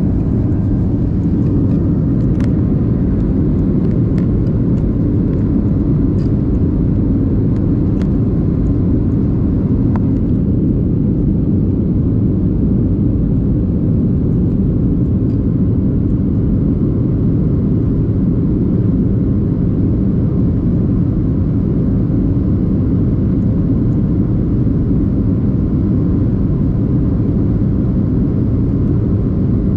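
Boeing 737-800 cabin noise, heard from inside the cabin: a steady, even roar of the jet engines and airflow.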